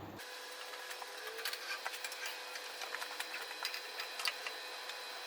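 Small irregular clicks and light scraping of metal exhaust pipe pieces being handled and lined up for a tack weld, over a faint steady hum.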